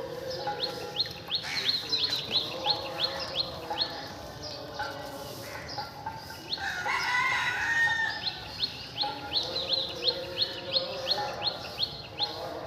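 A rooster crows once around the middle. Before and after it come runs of quick, repeated high bird chirps, each sweeping upward, about five a second.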